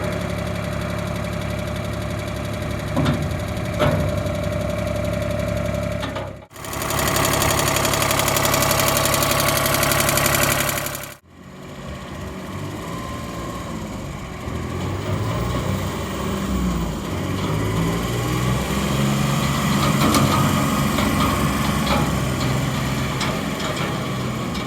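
Kubota mini tractor's small diesel engine running, in three separate takes. In the middle take it is louder and brighter, and in the last its speed rises and falls.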